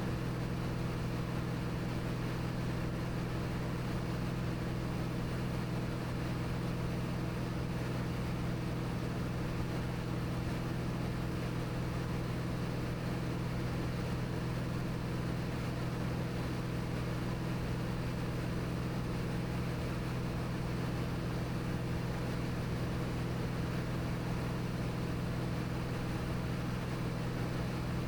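Cirrus SR22T's turbocharged six-cylinder engine and propeller droning steadily in flight, heard from inside the cabin: an unchanging low hum with several held tones over a steady hiss.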